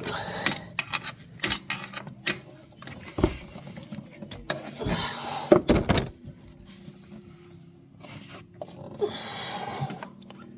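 Irregular metallic clicks and knocks from a socket, swivel and extension being worked in a spark plug well, with a longer scraping rustle near the end.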